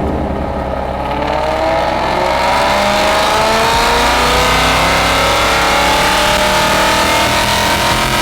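Whipple-supercharged Ford Coyote V8 revving steadily higher under load, its pitch climbing smoothly for several seconds as it gets louder.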